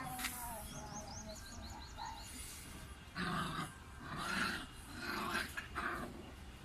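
Puppy growling in several rough bursts in the second half. A quick run of high chirps comes about a second in.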